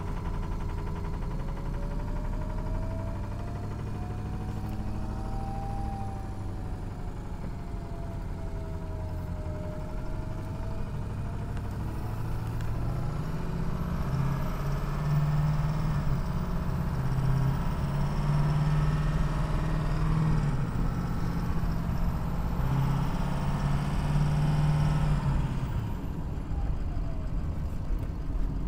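Ford 6.0 Power Stroke V8 turbo-diesel running: it idles, is held at a raised speed from about halfway through for some twelve seconds, then drops back to idle. A faint whistle rises and falls over the first part.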